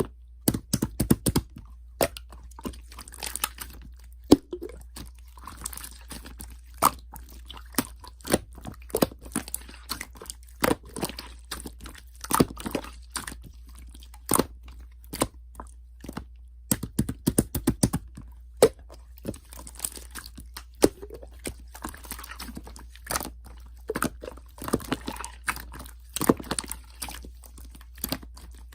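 A person chewing crunchy food, with irregular sharp crunches several times a second.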